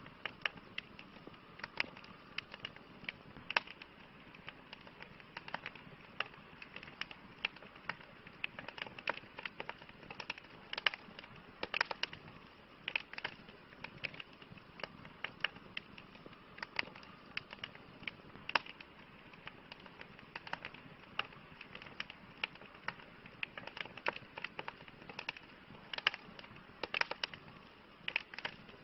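Campfire crackling: irregular sharp pops and snaps, several a second at times, over a steady soft hiss.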